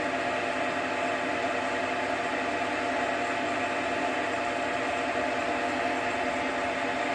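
JFMT metal lathe running steadily under power in screw-cutting mode, its gear train and lead screw giving an even whine of several fixed tones over a mechanical hum.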